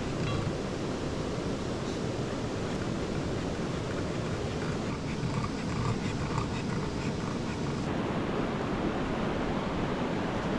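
Steady rushing of river water, an even noise without pauses.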